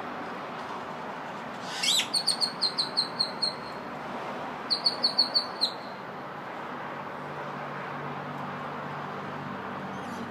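A songbird calling: a quick upward sweep, then a fast run of about nine sharp, high, repeated notes. A second, shorter run of about six notes follows about a second later. A steady background hum runs underneath.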